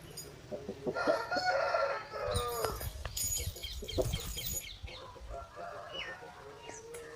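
Chickens on a farm: a rooster crowing with hens clucking and cackling over one another, busiest in the first half and settling into scattered clucks.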